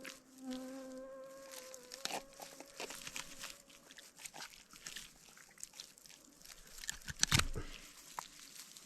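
Knife scraping and working on a pike, making irregular scratchy scrapes and clicks, with a louder scrape about seven seconds in. An insect buzzes briefly during the first couple of seconds.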